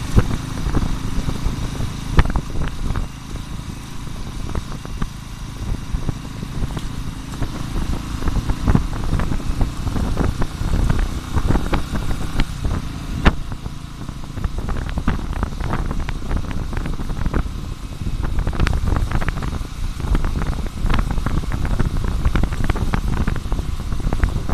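Motorcycle running while being ridden, a steady low rumble with many irregular clicks and knocks over it.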